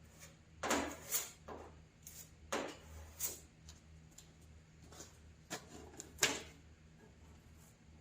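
Short scrapes and light knocks of hand body work on a steel car hood, a spreader working filler into rust holes, about six strokes with the sharpest near the end, over a steady low hum.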